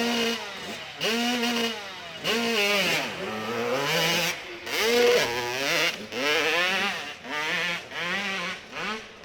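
Hill-climb motorcycle engine revving hard in repeated surges, its pitch rising and falling about once a second as the throttle is worked.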